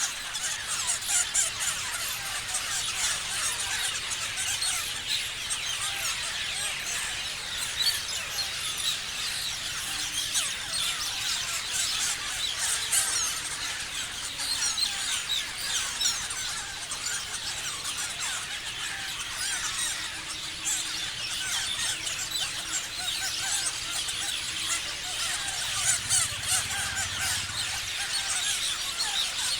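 A flock of parrots chattering and screeching together: many overlapping shrill, quick calls that run on without a break.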